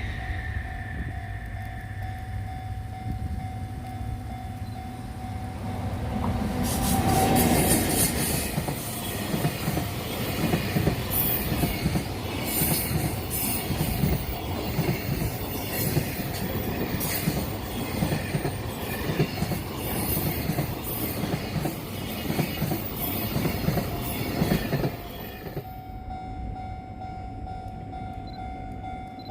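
A long freight train hauled by an electric locomotive passes at speed. The loud passage begins about seven seconds in, and the wagons clatter over the rail joints for nearly twenty seconds before the sound drops away abruptly near the end.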